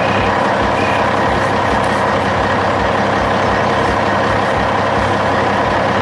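Heavy dump truck engine running steadily, with a regular low throb beneath it.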